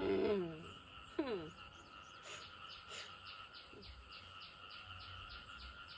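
A steady chorus of calling frogs and insects with a rhythmic pulse of about three a second. An animal gives a short call falling in pitch at the start, and a shorter falling call follows about a second later.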